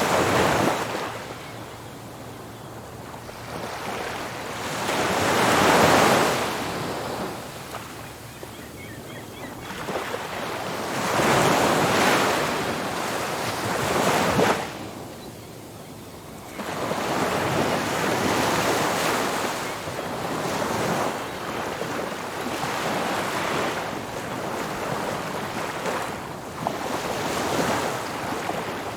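Ocean surf breaking on a beach, waves swelling and washing in one after another every few seconds, with wind on the microphone.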